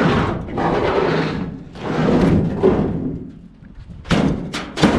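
Heavy scrap items being moved and handled: two long scraping, thudding rushes, then a quick run of sharp knocks near the end.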